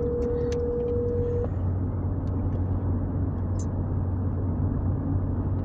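Car cabin road noise with a steady low hum throughout. In the first second and a half, a telephone ringback tone (an outgoing call ringing) sounds once and stops.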